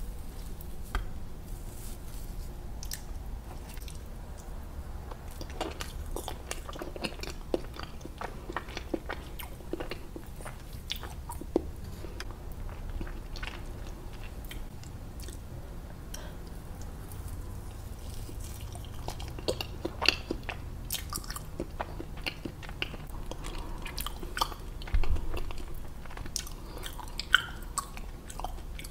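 Close-miked eating sounds of a person chewing soft, chewy mousse cake, with a steady stream of short clicks and smacks from the mouth. There is a louder burst about 25 seconds in.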